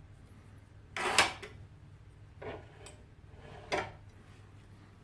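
Metal fireplace door leaves being opened and shut, giving three separate clanks and knocks. The first, about a second in, is the loudest and longest. The next two come about a second and a half and two and a half seconds later.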